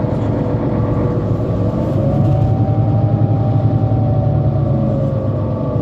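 Mercedes-Benz Citaro C2 Euro 5 city bus driving, its diesel engine running with a whine that rises about two seconds in as it pulls away, holds, then falls back near the end.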